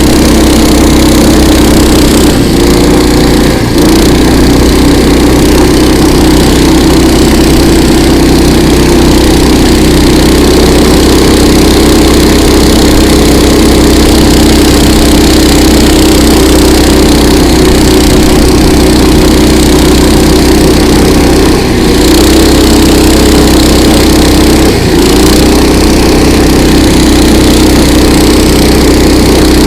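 Engine of a KOiRA all-season motor tow running steadily and loudly while riding, with three brief dips in its note.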